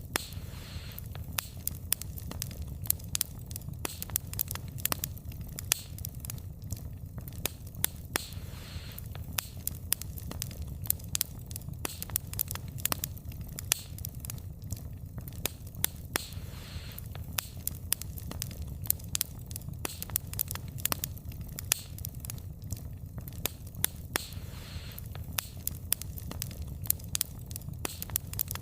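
Wood fire burning, the logs crackling and popping in irregular sharp snaps over a steady low rumble of the flames, with a brief soft hiss every several seconds.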